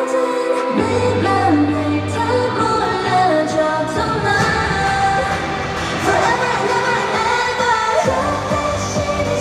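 K-pop song playing loud through the venue's sound system, with female vocals over a pop backing track. A heavy bass comes in about a second in.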